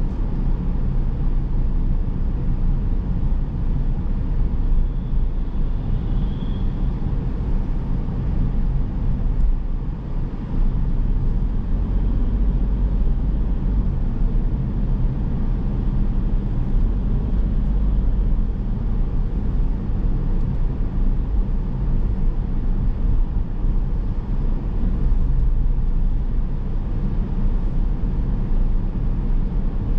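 Steady low rumble of a car driving on town roads: engine and tyre noise picked up by a camera in the car.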